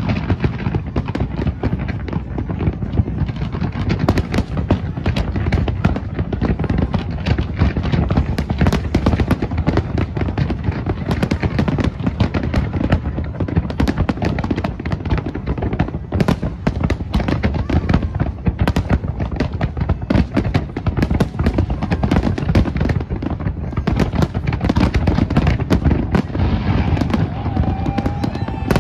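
Large aerial fireworks display going off continuously: dense, rapid bangs and crackling over a steady rumble of booming shells.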